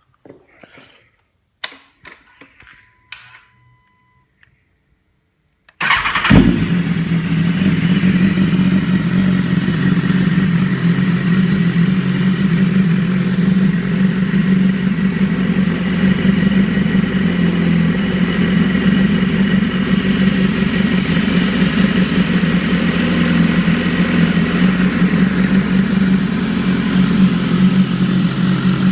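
A few faint clicks and short tones, then the 2015 BMW S1000RR's inline-four engine starts about six seconds in and settles into a steady idle through its aftermarket Austin Racing exhaust.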